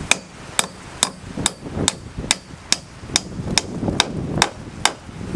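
Hammer driving nails into wood framing: about a dozen steady, evenly paced blows, a little over two a second, each with a short metallic ring.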